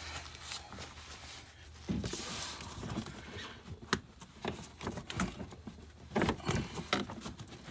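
Irregular knocks, clicks and clatter of hands working with tools and car parts, with a brief rustle about two seconds in.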